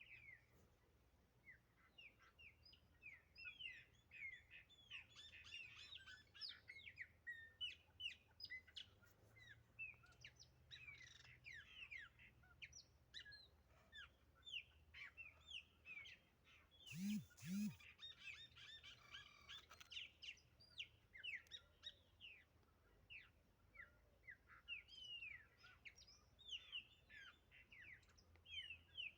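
Chopi blackbirds singing back and forth, a dense run of short whistled and chirping notes that sweep up and down in pitch. About two-thirds through, a brief louder sound with a low double note cuts in.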